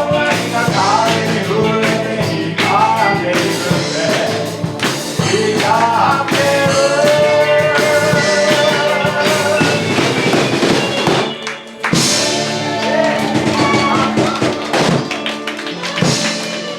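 A live band playing a song with a sung vocal line over guitar and drums.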